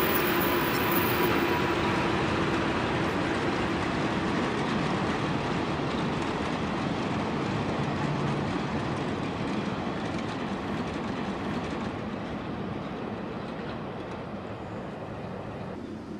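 Trains rolling past on the line alongside: a yellow commuter electric train and a slow freight train of two-axle Wam 80000 boxcars. A steady whine is heard over the rolling noise in the first few seconds and dies away, and the rolling noise then fades gradually as the freight cars go by.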